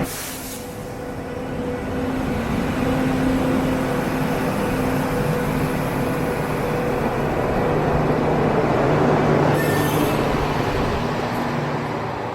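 Passenger train running along the track: steady rumble of wheels on the rails with a faint steady hum, and a brief high hiss about ten seconds in.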